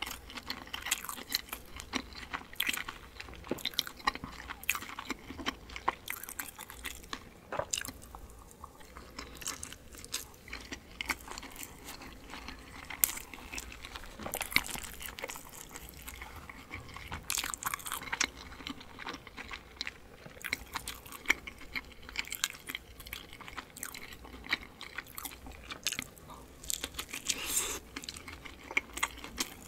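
A person chewing and biting into kimchi-filled dumplings: many small, irregular mouth clicks and bites.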